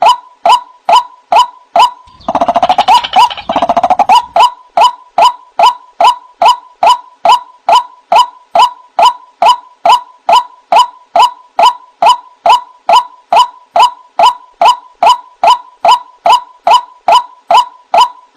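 White-breasted waterhen (ruak-ruak) calling: a loud, steady string of short falling notes, about two and a half a second, broken about two seconds in by a couple of seconds of harsher, rasping calls before the notes resume.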